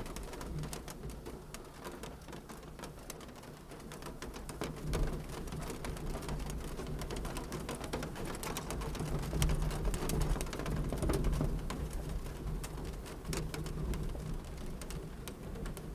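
Wood fire crackling in a fireplace: frequent sharp pops and snaps over a low, steady rumble of burning.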